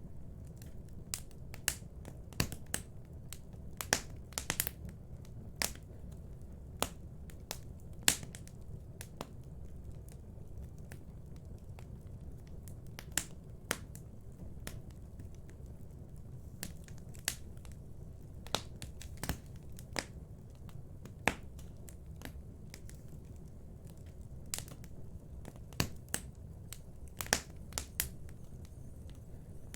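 Wood fire in a fireplace crackling: irregular sharp pops and snaps, a few of them much louder than the rest, over a low steady background noise.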